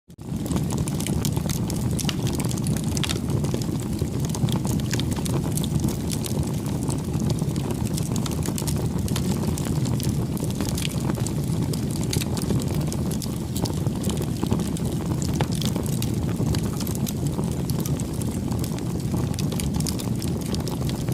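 Wood bonfire burning: a steady low rumble of flames with frequent small, irregular crackles and pops from the burning wood.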